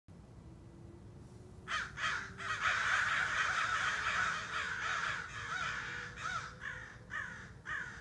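A flock of birds calling harshly in the trees: calls start about two seconds in, build into a dense overlapping chatter, then thin out to single calls near the end.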